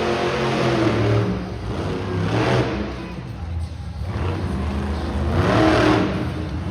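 Monster truck engine revving hard in repeated surges, each rising and falling away, with the strongest surge near the end. Arena music plays underneath.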